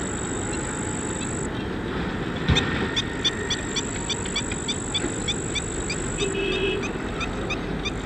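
A bird gives a rapid series of short, sharp, nasal calls, about three a second, starting about two and a half seconds in and running for some five seconds. A single knock comes just before the calls start, and a thin steady high-pitched tone runs underneath.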